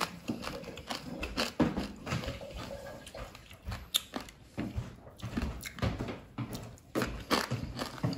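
Someone chewing crisp deep-fried carp up close, an uneven run of crunches, crackles and mouth smacks.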